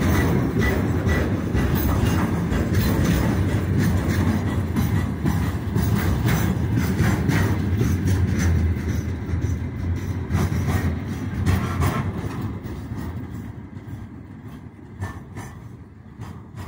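Freight train's container flat wagons rolling past, a steady rumble with wheels clicking over the rail joints. The sound fades from about twelve seconds in as the last wagon goes by and the train draws away.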